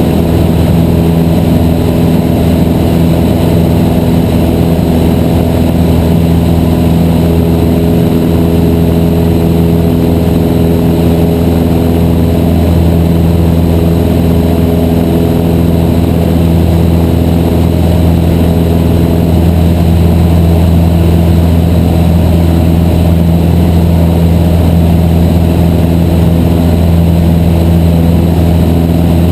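Cessna 152's four-cylinder Lycoming engine and propeller droning steadily, loud and close. The tone shifts slightly about two-thirds of the way through.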